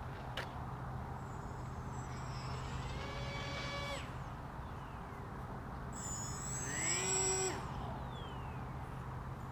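Steady background noise with a low hum. Twice a pitched motor sound glides past, changing in pitch as it goes; the second pass, about seven seconds in, is the louder.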